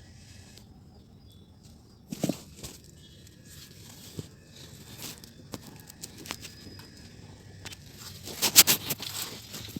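Hands working on an engine wiring harness: scattered rustling, taps and clicks, with a thud about two seconds in and a louder burst of rustling near the end.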